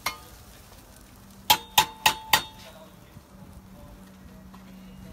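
Metal cooking utensil knocked against a metal cooking pan: one clang, then four quick clangs about a third of a second apart, each ringing briefly.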